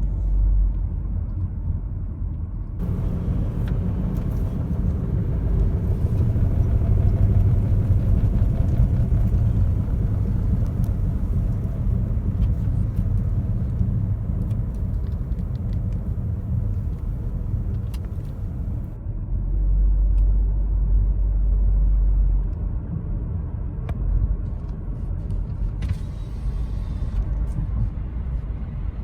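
Honda HR-V driving along with steady road and engine rumble, and a rhythmic rubbing from its brakes. The brake rotors are rusted from the car sitting unused for two weeks.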